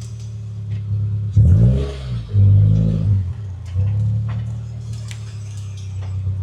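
Car engine running with a steady low drone, revving up briefly twice, about a second and a half in and again about a second later, then settling back to a steady run.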